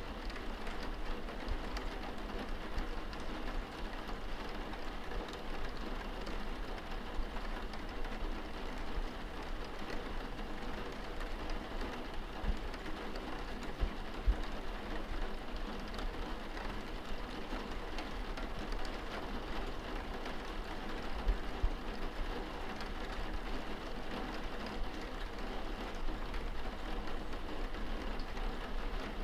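Steady rain heard from indoors, falling on and against a window, with scattered drops tapping the glass over a low steady rumble.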